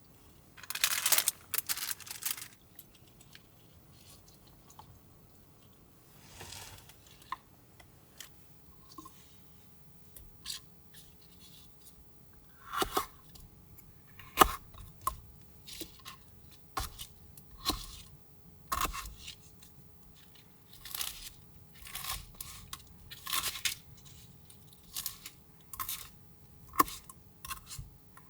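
Handling noises: a string of short tearing and crunching sounds and sharp clicks, scattered irregularly and loudest about a second in, over a faint steady hum.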